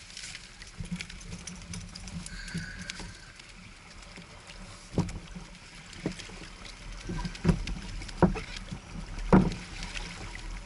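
Water lapping and slapping against a kayak's hull, with a few sharper slaps in the second half, the loudest near the end.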